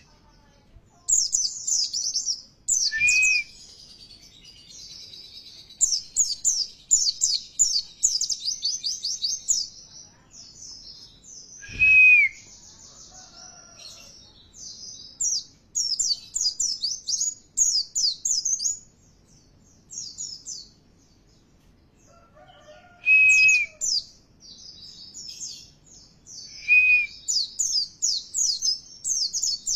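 White-eye (pleci) song: repeated bursts of rapid, high twittering phrases with short pauses between them, and a few lower single whistled notes in the gaps.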